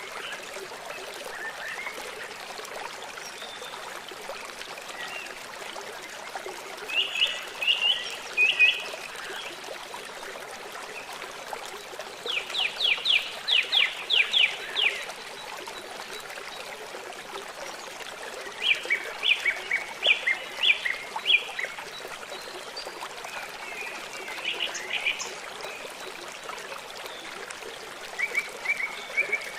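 A river running steadily, with a songbird singing short phrases of rapid, high repeated notes roughly every five or six seconds; the bird phrases stand out above the water.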